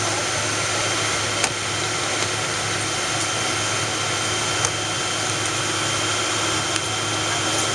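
Cabin noise inside a Boeing 777-200ER taxiing: the steady hum and whine of the engines at taxi power and the cabin air, with a few light clicks.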